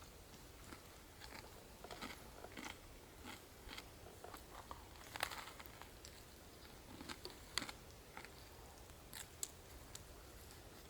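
A person eating, biting and chewing campfire flatbread with bacon and scrambled eggs: faint, scattered short crunches at irregular intervals.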